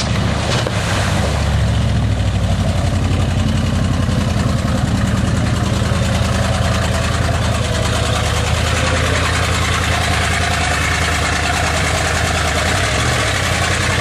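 Old GMC truck's gasoline engine running steadily under load as the truck drives through mud and standing water, with a dense hiss of water and mud splashing over it.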